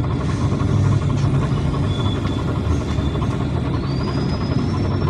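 Cabin noise of a PAZ Citymax 9 city bus: the engine running with a steady low rumble. A faint high whine rises slowly in pitch near the end.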